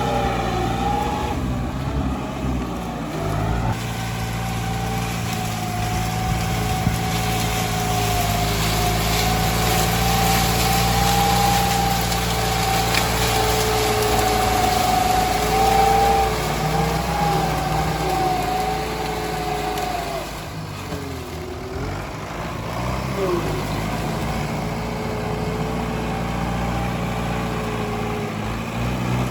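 Tractor engine running steadily with a high whine over its hum; about two-thirds of the way through the engine note dips and its pitch falls and climbs back, as under a change of load.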